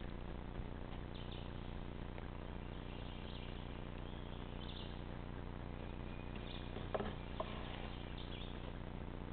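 Small birds chirping now and then in woodland, over a steady low background hum, with a brief louder sound about seven seconds in.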